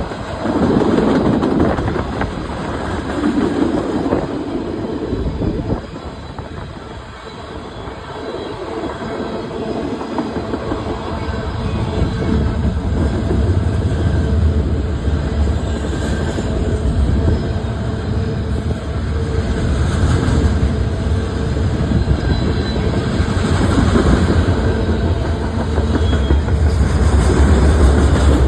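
Canadian Pacific Railway train passing on the track: wheels clattering and rumbling over the rails. The sound dips briefly around seven seconds in, then a heavy low rumble builds from about twelve seconds on.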